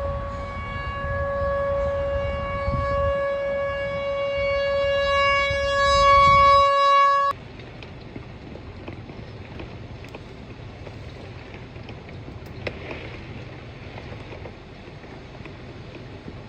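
Outdoor tornado warning siren sounding one steady tone, with wind rumbling on the microphone. It cuts off suddenly about seven seconds in, leaving a quieter steady rushing noise with a low hum.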